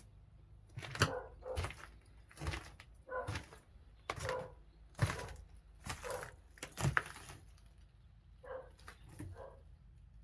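A dog barking repeatedly, about one bark a second, the barks weaker near the end.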